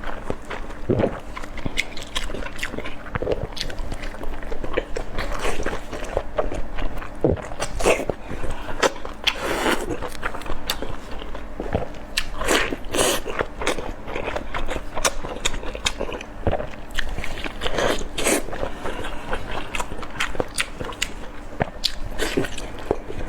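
A person eating large steamed dumplings close to the microphone: soft bites and wet chewing, with many small mouth clicks all through and a few louder smacks.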